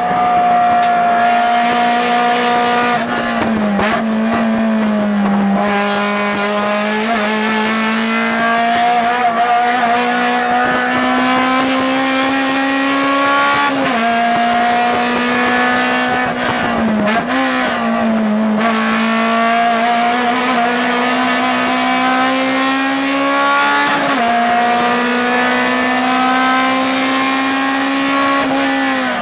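Acura RSX Type S race car's four-cylinder engine heard from inside the cabin, running hard at high revs. Its note climbs slowly and then drops sharply about five times as the gears change.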